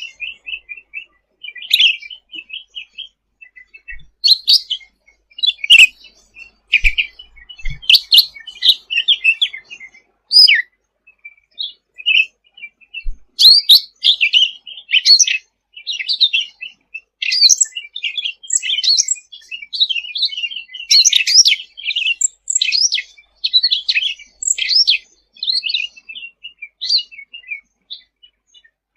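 Cucak ranting songbird singing a long, busy song of rapid chirps, trills and quick rising and falling notes, which grows denser in the second half.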